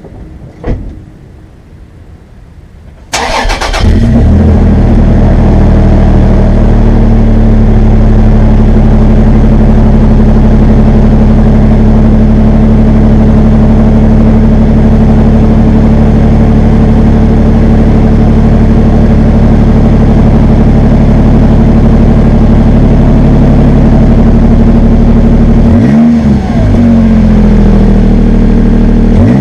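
2014 Toyota Tacoma's 4.0-litre V6 breathing through a Flowmaster 50 Series muffler: after a click, the engine cranks and catches about three seconds in, then settles into a steady idle with a deep exhaust note. Near the end the throttle is blipped twice, a quick rev up and back down each time.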